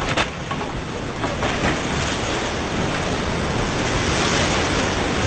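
Whitewater rapids rushing around a raft, a dense, steady noise of churning water.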